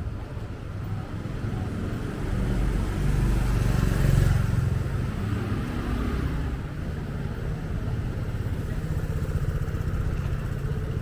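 Street traffic: a motor vehicle's engine passing close by, growing louder to a peak about four seconds in and then easing off, over steady engine noise.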